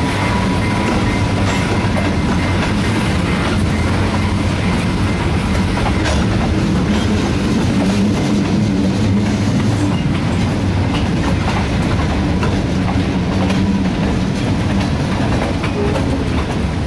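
Freight train rolling past, with wheels clicking over rail joints over the steady drone of a GE B23-7 diesel locomotive.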